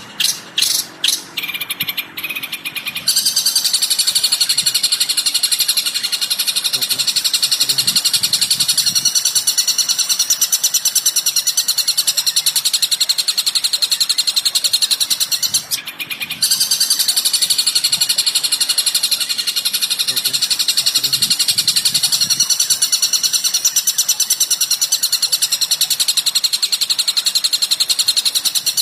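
Recorded bird calls of the kind used as masteran song-training material. It opens with a few separate rattling notes. A very fast, dense, high-pitched trill follows and runs on, breaking off briefly about sixteen seconds in before starting again.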